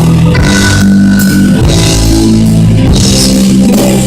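Full band playing a rock-style worship song with no singing: drums with cymbal crashes about once a second over held guitar and keyboard chords.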